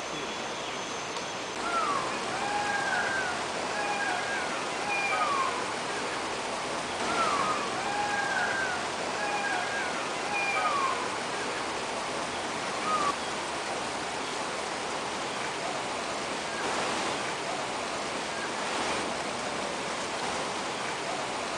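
Steady rush of running or falling water, with a bird calling over it: a run of short repeated calls, several dipping in pitch, through the first half, then only the water.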